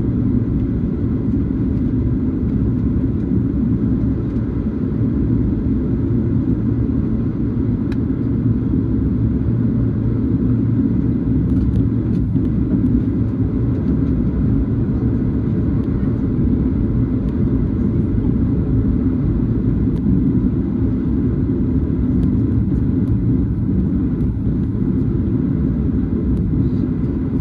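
Steady low rumble of a Boeing 737's engines and airframe, heard from inside the cabin, with no distinct events.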